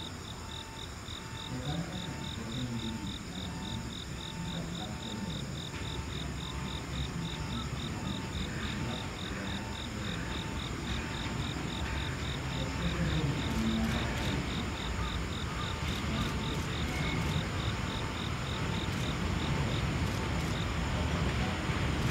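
A low rumble slowly growing louder as an EF510 electric locomotive with a container freight train approaches from afar, under a steady rhythmic chirping of about three or four pulses a second that fades out near the end.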